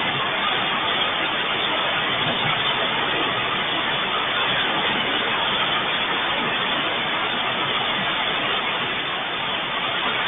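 Steady downpour of heavy rain, an even hiss with no thunder heard.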